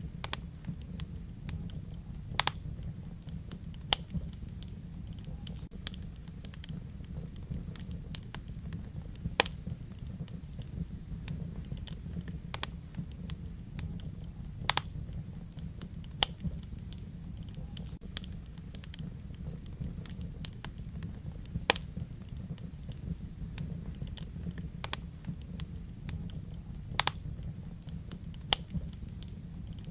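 Wood fire burning in a fireplace: a steady low rumble of flame with irregular sharp crackles and pops, a dozen or so louder snaps among many small ones.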